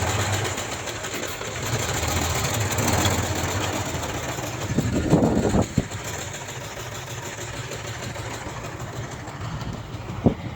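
Heavy diesel earthmoving machinery running with a steady low engine hum. A louder surge comes about five seconds in, after which the engine runs quieter.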